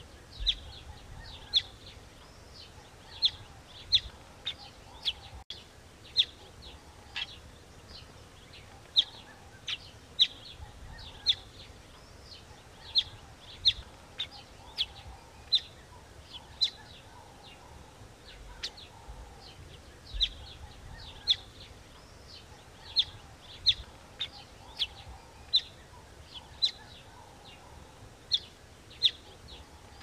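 Small bird chirping: short, sharp, high chirps repeated at irregular intervals, about one a second, over faint outdoor background noise.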